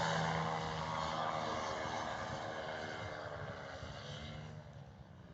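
Engine and propeller of a light powered aircraft flying over, a steady drone that fades as it moves away.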